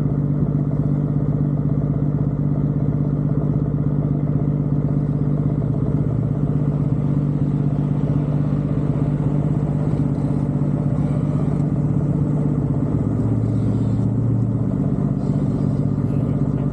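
A car engine running at steady revs with a low, even drone. Its pitch drops briefly about two-thirds of the way through.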